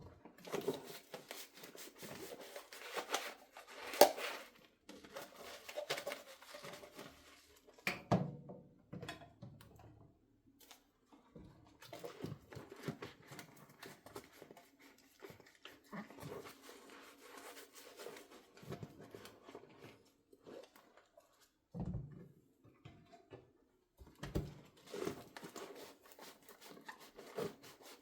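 Dishes being washed by hand: a sponge scrubbing and rubbing in short stretches with brief pauses, and a few sharp knocks of dishware, the loudest about 4 seconds in.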